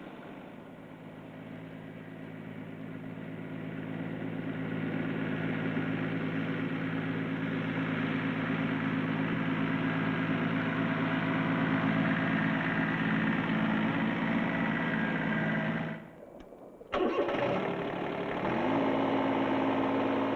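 A Ford 1210 compact tractor's three-cylinder diesel engine running steadily, growing louder over the first few seconds. The sound cuts out for about a second around 16 s in, a break in the old recording. When it returns, the engine note rises slightly.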